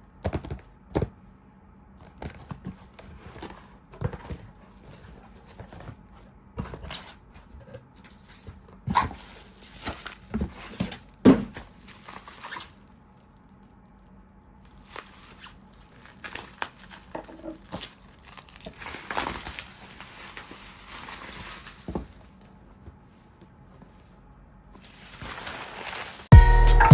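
Blind-box packaging being handled and opened: scattered taps and clicks on the box, then longer crinkling and tearing rustles of the wrapping. Music starts right at the end.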